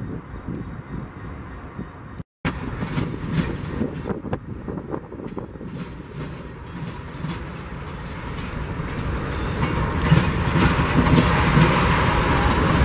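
A freight train of boxcars and tank cars rolling past, its wheels clicking over the rail joints, over the low running of a diesel locomotive close by. The train noise grows louder and brighter about ten seconds in, and the sound cuts out for a moment about two seconds in.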